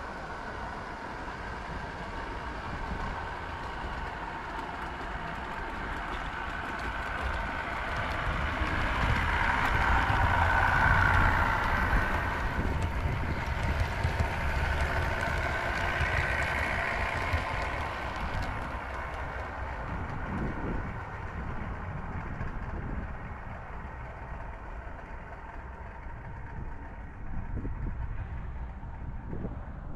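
A train running past: a steady running sound with a whine. It builds to its loudest about ten seconds in, then fades away.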